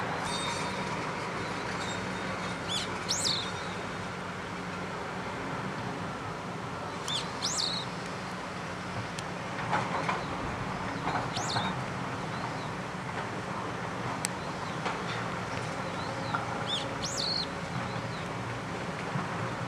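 Daurian redstart giving thin, high calls, one every few seconds, over the steady rush of a mountain river.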